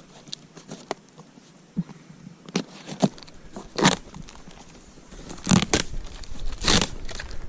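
Packaging being handled while a part is unpacked from a box: rustling and crackling with scattered clicks and a few louder, short scrapes.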